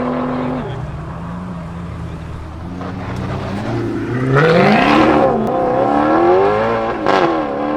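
Supercar engine revving: a quieter stretch, then a sharp rev that rises and falls about halfway through, a second quick blip near the end, and revs climbing again as the car accelerates away.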